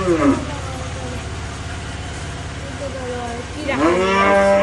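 An animal's drawn-out call, rising then falling in pitch, at the start and again about four seconds in, each about a second long, over a steady low engine idle.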